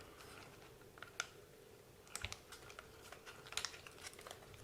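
Scattered light clicks and taps of small plastic and metal RC car parts being handled and turned over on a workbench, a few quick clicks at a time.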